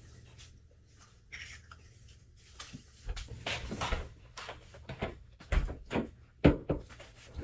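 Irregular taps, knocks and clatter of eggs being handled and cracked against a bowl, with several sharper knocks in the second half.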